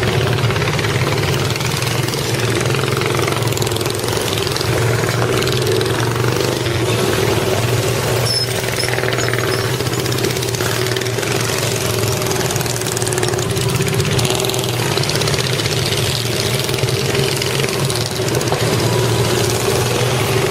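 Engine idling steadily, with no change in speed.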